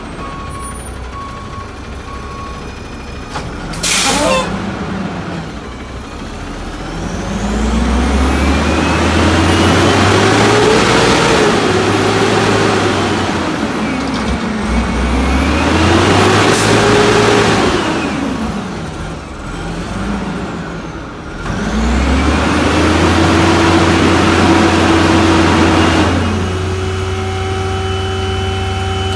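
1989 White/GMC Xpeditor garbage truck: a short air-brake hiss about four seconds in, then the diesel engine revved hard three times, each rev climbing, holding and falling away, to drive the hydraulics while it lifts and packs heavy dumpsters. Near the end the engine drops back to a steady idle.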